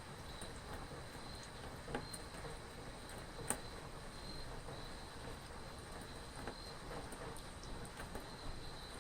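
Steady light rain pattering, with a few sharper drips, and a cricket chirping in a steady rhythm behind it.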